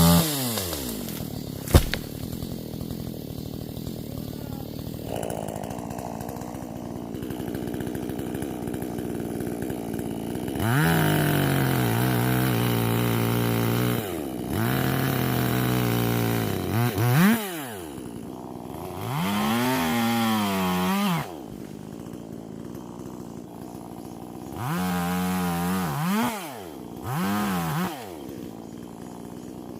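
Two-stroke chainsaw idling and revved again and again in short throttle bursts, the pitch rising and falling back each time, with a sharp click about two seconds in.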